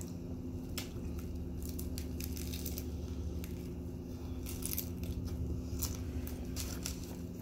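Close-up chewing and lip-smacking while eating a bacon, egg, sausage and cheese breakfast muffin: a run of short wet clicks and smacks, with a bite taken about four seconds in. A steady low hum runs underneath.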